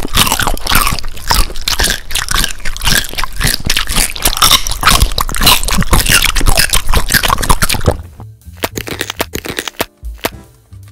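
Close-up eating sounds: rapid, dense crunching and chewing of crisp food, as in eating ASMR. About eight seconds in, the crunching thins out to a few separate crunches and clicks.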